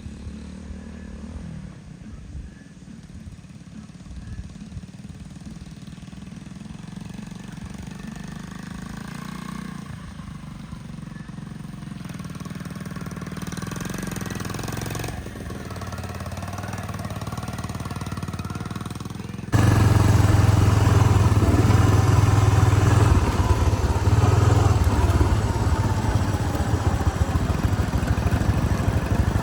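Mini bike engine running, growing gradually louder over the first two-thirds. About two-thirds of the way in, the sound jumps abruptly to a much louder, closer engine that keeps running steadily.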